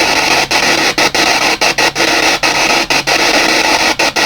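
P-SB7 spirit box sweeping through radio frequencies: loud, steady static hiss, cut by quick dropouts about three times a second as it jumps from station to station.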